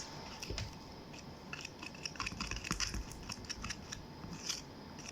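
Glue and paint being stirred in a bowl for slime: a stirring utensil scraping and clicking against the bowl in quick, irregular strokes.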